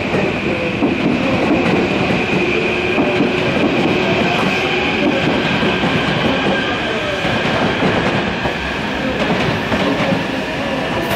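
Electric commuter train moving through the station platform: a steady high whine over lower motor tones that slide up and down in pitch, with a tone rising near the end.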